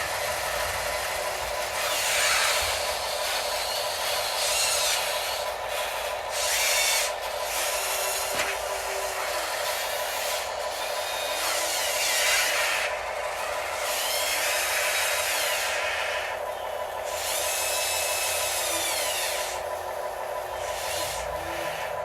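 Radio-controlled excavators, loader and dump trucks working: small electric motors whine in repeated bursts, gliding up and down in pitch, over a steady mechanical hum.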